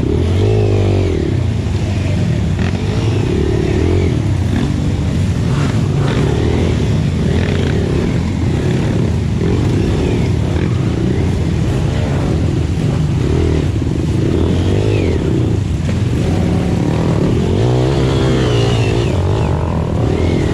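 Dirt bike engine running and revving up and down over and over.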